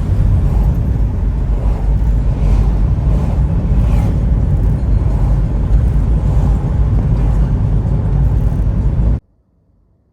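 Wind buffeting the microphone: a loud, low rumble that stops abruptly about nine seconds in.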